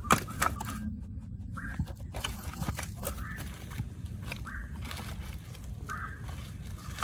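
Short bird calls repeating about once a second over a steady low rumble, with a few sharp clicks and knocks in the first few seconds.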